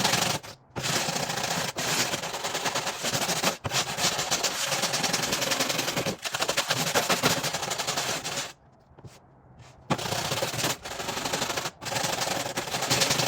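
Rotary wire brush scrubbing rust off a saw's steel blade: a fast, rattling run that stops about eight and a half seconds in and starts again just over a second later.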